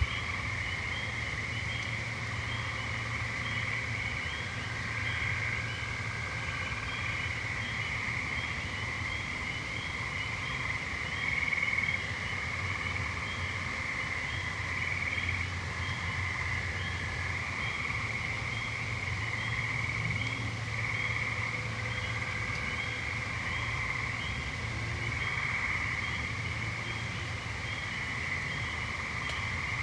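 Evening chorus of trilling frogs, steady throughout, with faint high notes repeating about one and a half times a second above it and a low steady hum beneath.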